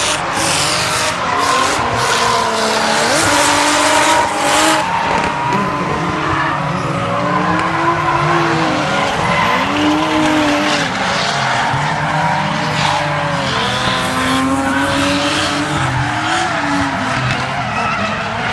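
Drift cars' engines revving hard, their pitch rising and falling again and again as the cars slide through the corners, over continuous tyre squeal and scrubbing. A few sharp cracks sound in the first few seconds.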